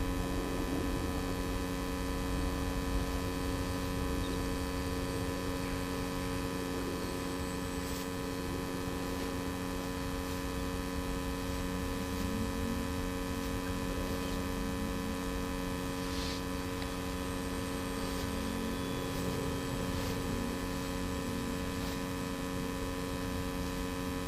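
A steady hum with many evenly spaced overtones, holding one pitch throughout.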